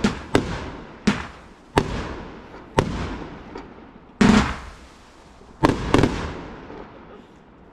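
Consumer fireworks going off: about seven sharp bangs at irregular gaps of roughly a second, each trailing off in a fading rumble. The biggest comes about four seconds in, and a quick pair follows near six seconds.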